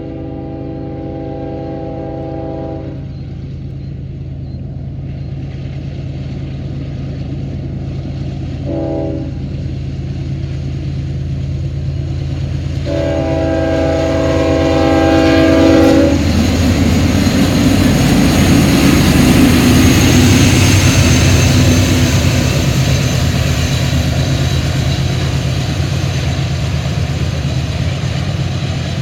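Norfolk Southern coal train's diesel locomotives working hard upgrade, engines running loud and steady as they approach, with the air horn sounding a long blast, a short one, then a long one, as for a grade crossing. From about halfway the locomotives pass and the loaded coal cars follow in a loud rolling rumble of wheels on rail.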